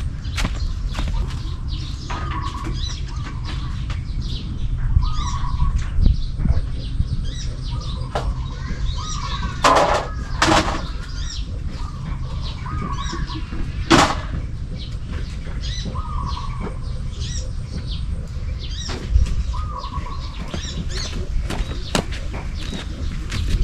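Small birds chirping repeatedly, with a short call repeating every couple of seconds. Scattered sharp clicks and rustles, the loudest about ten and fourteen seconds in, sit over a steady low rumble.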